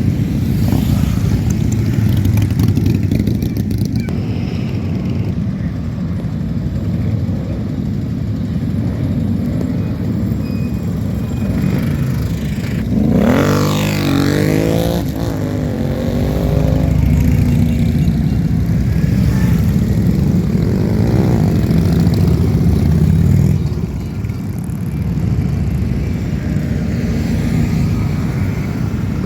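Many motorcycle engines running together in a mass ride, a steady low rumble. About halfway through, one bike close by revs hard, its pitch rising and falling over a couple of seconds.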